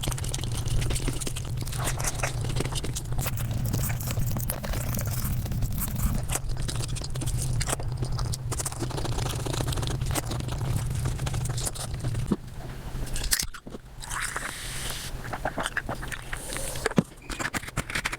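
Close-miked eating sounds played back at five times speed: rapid chewing, biting and crunching over a steady low hum, with a brief drop-out about two-thirds through.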